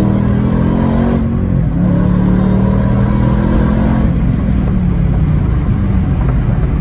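2012 Shelby GT500's supercharged 5.4-litre V8 on its stock exhaust, heard from inside the cabin during a full-throttle pull. The engine note climbs, falls back briefly about a second in, climbs again until about four seconds in, then eases off.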